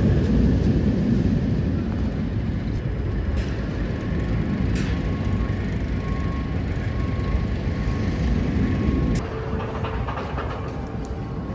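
Hyperia roller coaster train running on its track during a test run: a steady low rumble that drops slightly near the end, with a faint thin tone through the middle.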